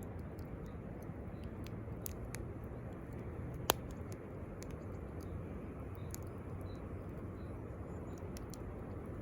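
Campfire crackling, with scattered small snaps and one sharp pop a little under four seconds in, over a steady low rush.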